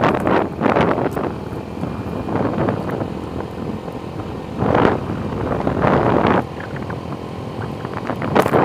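Wind buffeting the microphone on a moving motorcycle, a loud rushing noise that swells in two stronger gusts a little past the middle.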